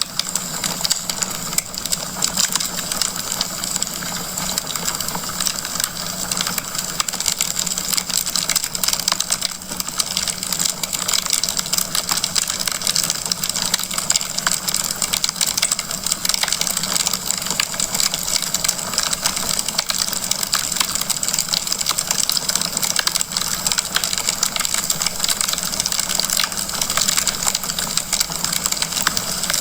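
Wood fire burning in a fireplace: a dense, steady stream of small crackles and pops over a constant hiss.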